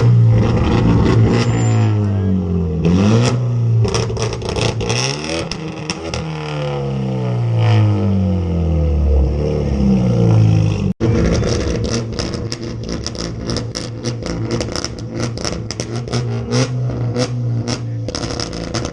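A car engine being revved hard over and over in a rev battle, its pitch climbing and falling with each blip of the throttle. A fast crackle runs over the engine in the second half, and the sound cuts out for an instant about eleven seconds in.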